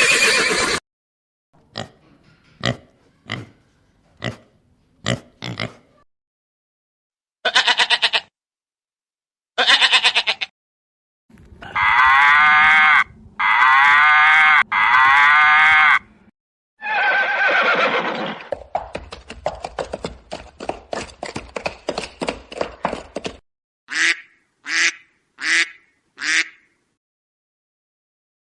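A string of different animal calls cut one after another. It goes from a few sharp clicks to several loud calls whose pitch wavers up and down. Then comes a fast run of short pulses, and four short calls near the end.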